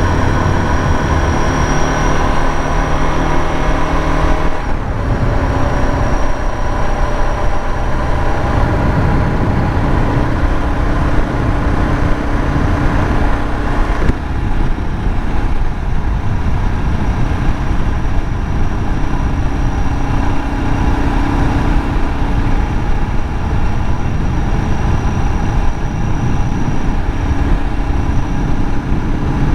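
Suzuki DR650's single-cylinder four-stroke engine running as the bike rides along, with a low rush of wind under it. The engine note shifts about four to five seconds in and changes again about halfway through.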